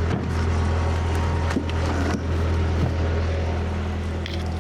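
Skid steer engine running steadily, with a few short knocks of firewood being handled.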